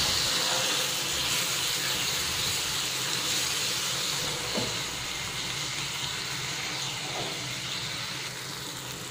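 Chopped tomatoes and spice masala sizzling in hot oil in a nonstick kadai as they fry down: a steady hiss that slowly grows quieter.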